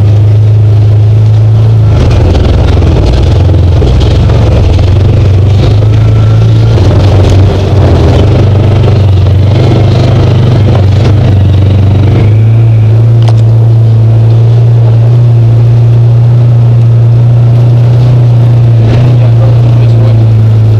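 Side-by-side UTV engine running loud and close. Its drone rises and falls with the throttle through the first half, then holds steady from a little past halfway.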